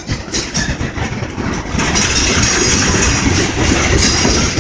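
Freight train of loaded tank cars rolling past at close range: a steady rumble and rattle of steel wheels on the rails, growing louder about two seconds in.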